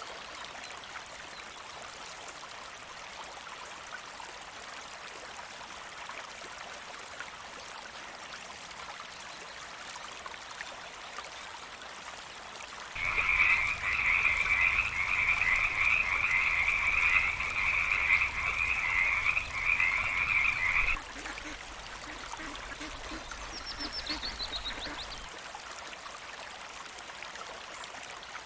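An animal's long, fast trilling call lasting about eight seconds, starting about halfway in and cutting off suddenly, over a steady sound like running water. A brief, faint falling chirp follows near the end.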